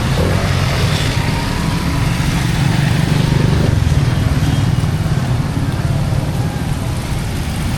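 Motor vehicle engine running close by on a busy street, swelling a little louder near the middle, over a steady wash of traffic noise.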